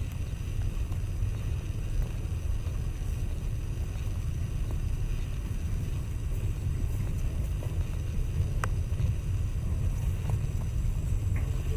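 Container freight train rolling past at low speed: a steady low rumble of wagon wheels on the rails, with an occasional faint click.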